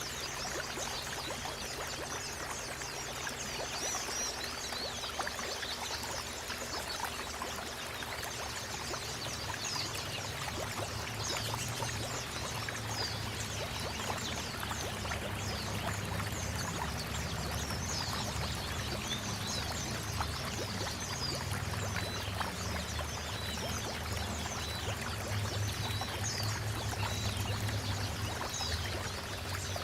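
Water running and splashing steadily, like a stream or small waterfall, with many small birds chirping over it.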